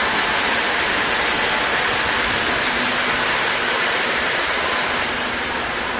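Madrid Metro 2000B train running through the station: a steady rushing of wheels on rails, easing slightly near the end, with a faint low hum coming in about halfway.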